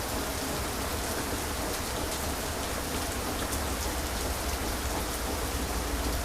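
Heavy rain falling steadily, with fine droplet patter on top and a low steady rumble underneath.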